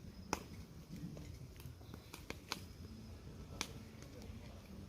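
Bonfire crackling: a few scattered sharp snaps over a faint low background.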